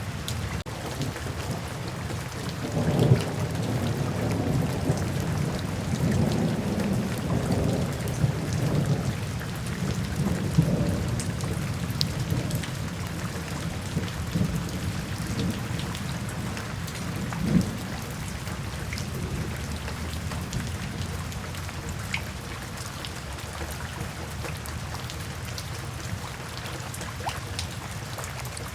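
Steady rain, with a rumble of thunder that rolls in about three seconds in and dies away by the middle, and one more short low boom later on.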